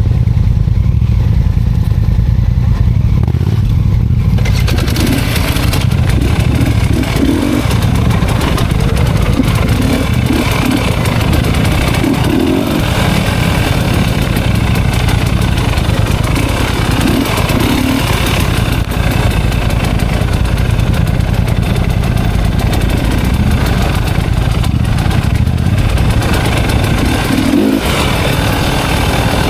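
Off-road motorcycle engine running under way on a trail. Its sound turns rougher and noisier about four seconds in.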